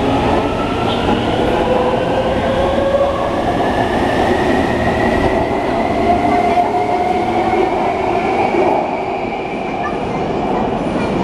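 Electric train's traction motors whining, the pitch rising steadily as the train gains speed, over the continuous rumble of the wheels on the track.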